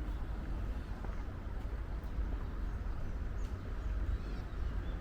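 Outdoor park ambience: a steady low rumble with a few faint, short bird chirps and light ticks over it.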